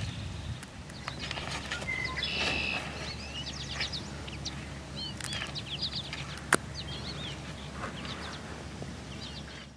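Songbirds chirping in many short, quick calls over a steady low rumble, with one sharp click about six and a half seconds in.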